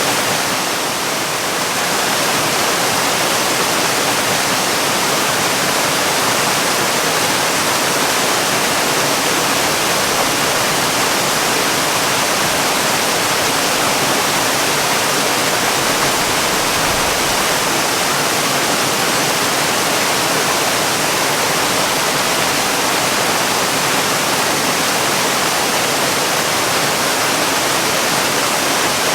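Waterfall: the steady, even rush of falling water, an unbroken hiss without drips or splashes standing out.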